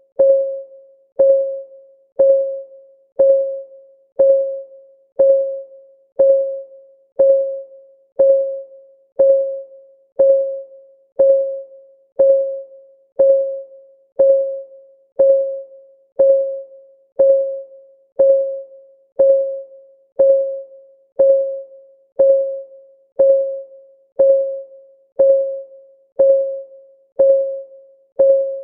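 Countdown timer's clock-ticking sound: one tick a second, each a short, pitched, piano-like tick that fades quickly, in a steady even rhythm.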